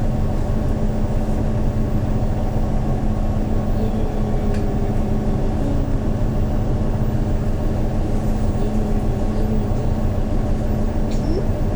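Hyundai New Super Aero City CNG city bus engine running with a steady low drone, holding the same pitch throughout.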